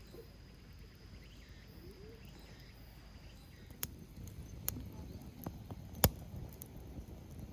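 Quiet outdoor ambience with a faint steady high insect-like tone and a few faint gliding calls. From about four seconds in come several sharp clicks and knocks, the loudest of them about six seconds in.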